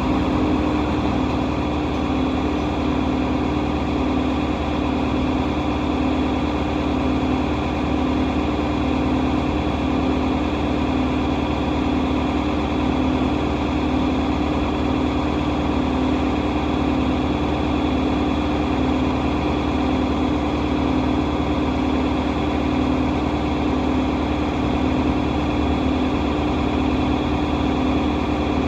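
Tractor engine running steadily at constant speed, a continuous even mechanical hum with no change in pitch or load.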